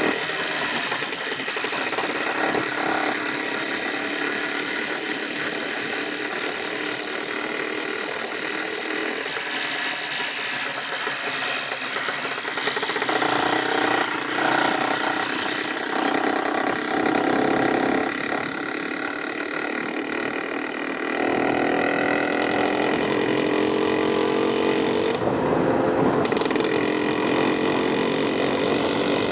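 An engine running steadily, its pitch shifting up and down several times and growing louder from about twenty seconds in.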